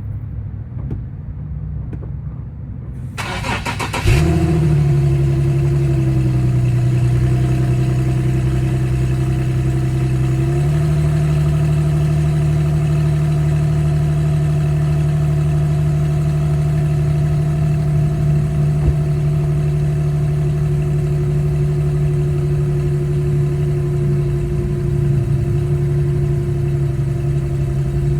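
Infiniti G37's 3.7-litre V6 cold start: the starter cranks briefly about three seconds in and the engine catches at about four seconds, settling into a steady idle. The idle note shifts once about ten seconds in, then holds steady.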